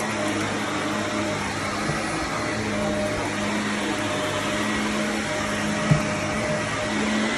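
Shark vacuum cleaner running steadily on carpet, a wide whooshing noise over a steady motor hum. A single short knock about six seconds in.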